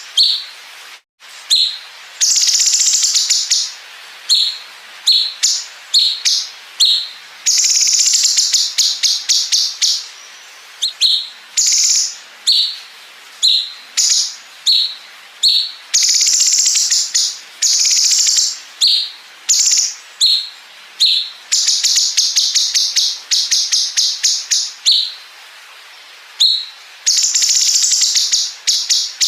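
Cucak cungkok songbird singing loudly in high, sharp notes. Short chirps alternate with long, fast rattling trills of one to three seconds each, the machine-gun-like 'bren' fill. The song breaks off briefly about a second in.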